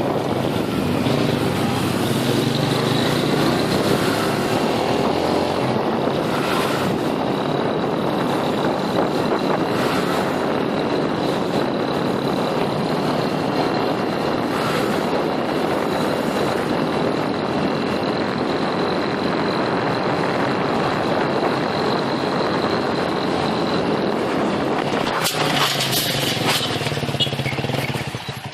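Motorcycle engine running while riding, with a steady rush of wind noise and a thin high whine. Near the end the ride sound changes and the engine settles to a steady idle-like running.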